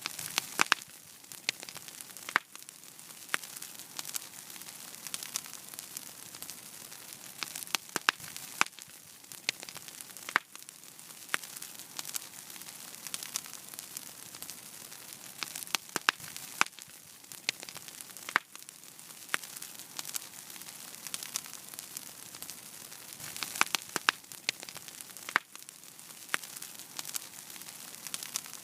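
Wood fire in a fireplace crackling: a steady hiss with sharp, irregular pops and snaps, several loud ones in quick clusters.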